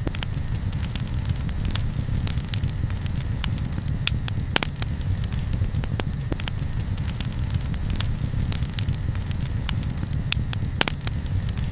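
Campfire crackling, with irregular sharp pops and snaps over a low steady rumble. A short high chirp repeats about once a second throughout.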